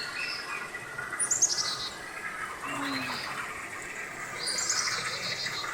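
Wild birds calling: scattered high chirps, with a quick run of falling high notes about a second in and another near the end.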